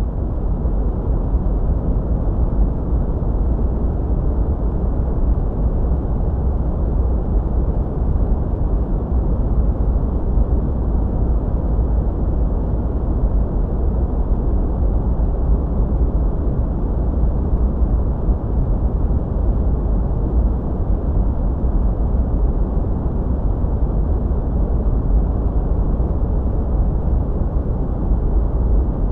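Steady sleep-aid noise, a deep, even rush that is heavy in the bass and muffled in the treble, with no changes.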